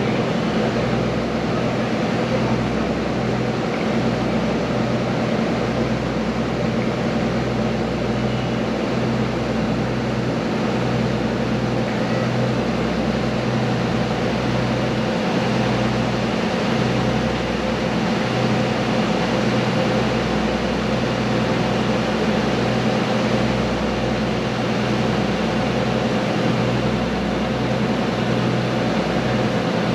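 A ferry's engine running steadily, a constant hum of low tones over an even wash of noise.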